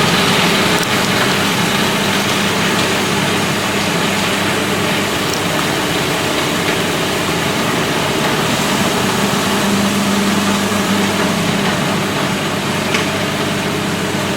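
Electric food processor running steadily, grinding seeds, oats and dates into a pie-crust dough: a steady motor hum under a dense whirring noise.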